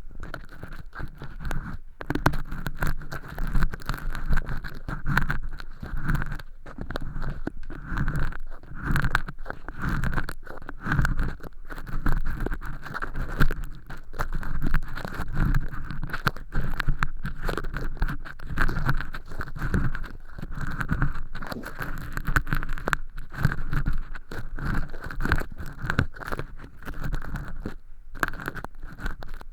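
Ear pick scraping and rustling inside a silicone ear model, lifting off thin flakes of fake earwax, in continual irregular scratching strokes close to the microphone.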